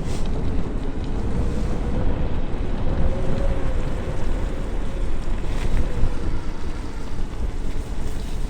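Wind buffeting the microphone, with the electric bike's rear motor whining faintly underneath; the whine rises slightly in pitch, then eases off toward the end.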